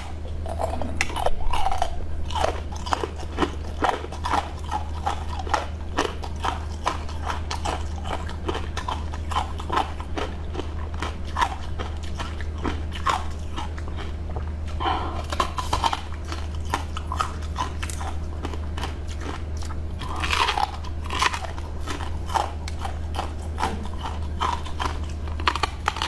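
A person eating close to the microphone: a steady run of crisp crunching bites and chewing, with louder bites about a second and a half in, around 15 seconds and around 20 seconds.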